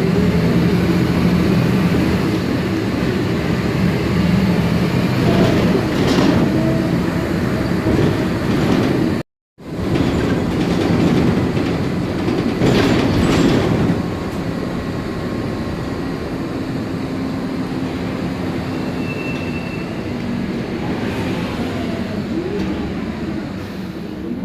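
MAN Lion's Classic city bus heard on board while driving: its turbocharged CNG straight-six engine and ZF Ecomat six-speed automatic gearbox running under way. The sound is broken by a short cut about nine seconds in and runs slightly quieter after about fourteen seconds.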